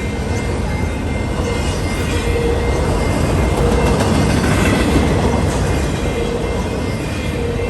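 A train rolling past, a steady rumble of its wheels on the rails with a faint regular clack about once a second.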